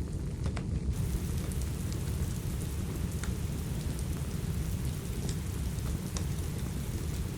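Steady rain with a deep low rumble, mixed with the sharp, scattered pops and snaps of a crackling wood fire.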